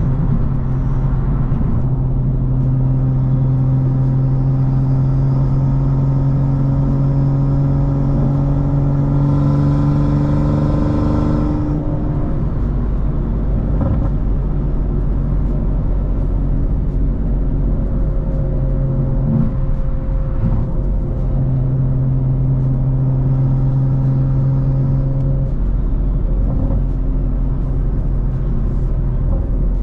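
BMW M340i's turbocharged B58 3.0-litre inline-six running at steady cruising revs with a constant drone. It eases off for a few seconds about halfway through, then holds steady revs again.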